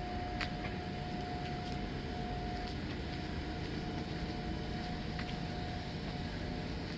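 Train rolling past: a steady rumble of wheels on the rails with scattered sharp clicks and a thin steady whine that fades out for a moment in the middle.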